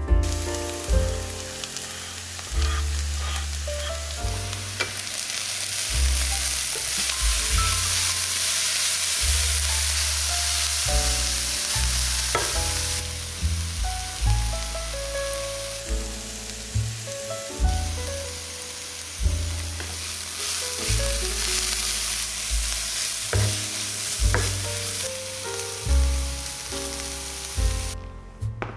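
Sliced onions and grated carrot sizzling in hot vegetable oil in a frying pan, a steady hiss that stops just before the end. Background music plays underneath.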